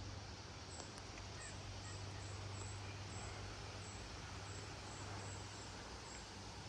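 Steady rushing noise of strong, gusty wind from a passing hurricane.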